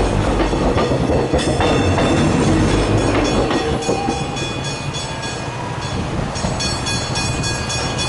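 Train passing over the level crossing and its tram-track square, with wheels clacking over the rail joints and the rumble dying away after about four seconds. The crossing's bells keep ringing in a steady repeated ding.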